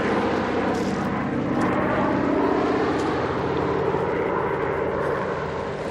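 Propeller-driven aircraft engine droning steadily, with a slight shift in pitch about two seconds in.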